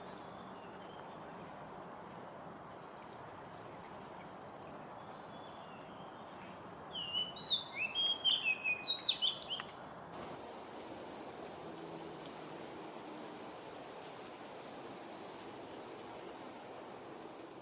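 Steady high insect buzzing, with a bird giving a quick run of chirping calls about two-thirds of the way through. About ten seconds in, a louder, steady insect drone of several high tones starts suddenly and holds to the end.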